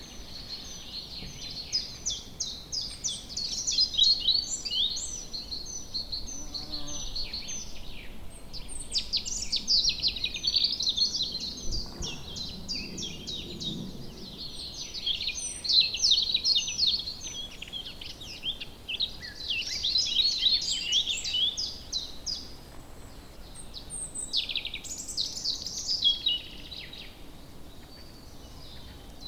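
Woodland birds singing: a dense chorus of many overlapping songbird chirps and trills, rising and falling in waves, over a faint steady background hiss.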